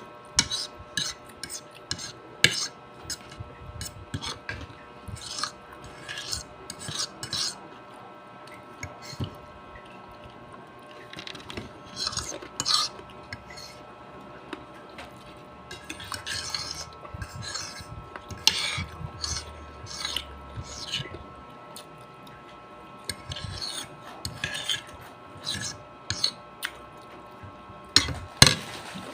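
Cutlery clinking and scraping against a plate while eating, in irregular runs of short sharp clicks, over a faint steady hum.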